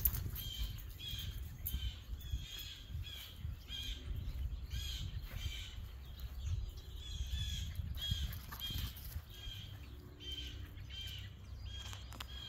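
A small bird calling over and over, short high chirps at about two a second, with a low rumble underneath.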